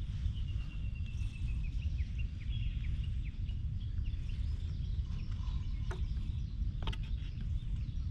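A bird calls a fast run of short, high chirps over the first two seconds or so, above a steady low rumble on the microphone. Two sharp clicks come later, about a second apart.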